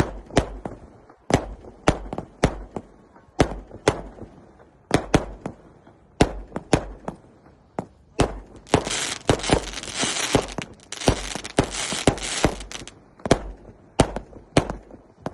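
Fireworks going off: a string of sharp, irregular bangs, with a dense crackling hiss for several seconds in the middle.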